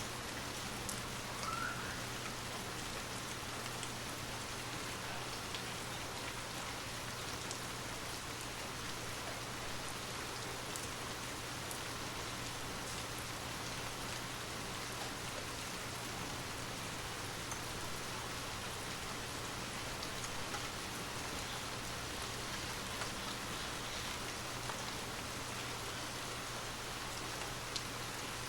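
Steady rain falling, with scattered individual drop ticks over an even hiss and a low steady hum beneath.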